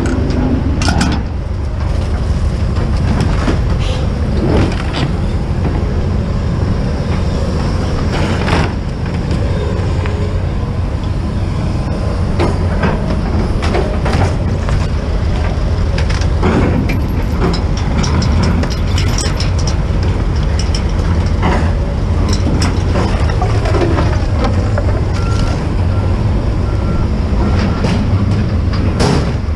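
Vehicle engine running steadily with a deep rumble, with scattered knocks and rattles over it.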